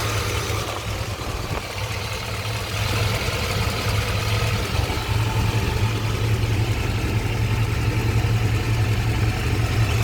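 Chevrolet 5.7-litre TBI 350 V8 idling steadily with a tick from the valve cover area, which the owner traced to a loose spark plug. It gets a little louder about three seconds in.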